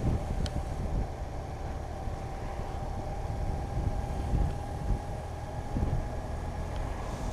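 Motorcycle on the move: steady engine and road rumble with wind buffeting on the microphone, and a thin steady tone running over it.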